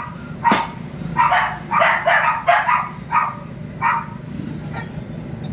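A run of about eight short, high yelping calls, bunched together in the middle and stopping about four seconds in.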